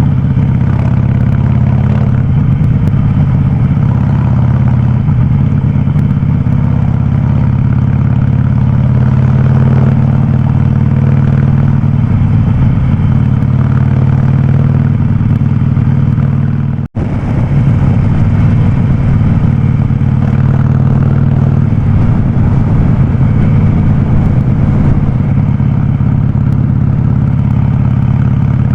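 Harley-Davidson Sportster 48's air-cooled V-twin running steadily through a loud aftermarket VnH exhaust, with a deep, even note. The sound cuts out for an instant about two-thirds of the way through.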